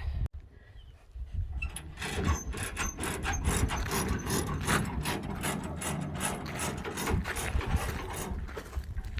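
Rapid, irregular mechanical clicking and clattering over a low, steady rumble, starting about a second and a half in.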